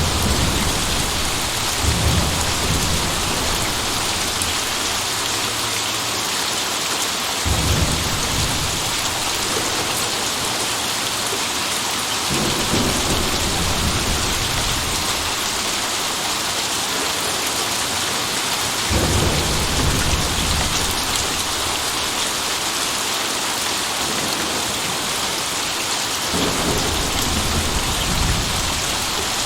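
Steady heavy rain falling, with thunder rolling about five times, each roll a deep rumble lasting a few seconds.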